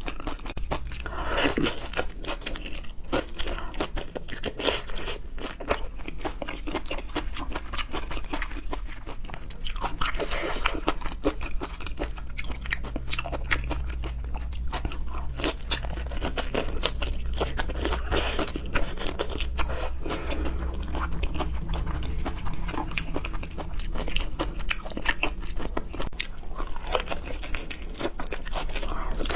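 Close-miked eating of seafood: crunching bites and wet chewing, with dense, irregular sharp clicks.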